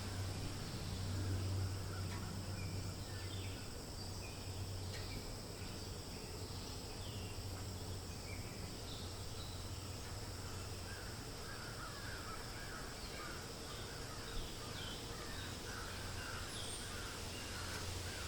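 Forest ambience: wild birds calling, with scattered short chirps and, from about halfway through, a run of short repeated calls at about two a second, over a steady low rumble of wind.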